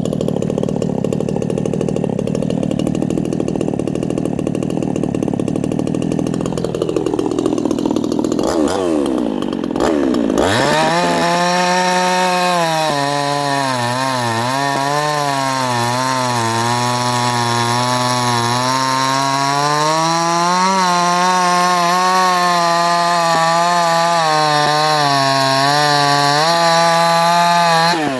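A 58cc Chinese two-stroke chainsaw working wood at high revs. For the first several seconds the note is rougher and less clear. About ten seconds in it changes to a strong, clear engine note that rises and dips in pitch and holds to near the end.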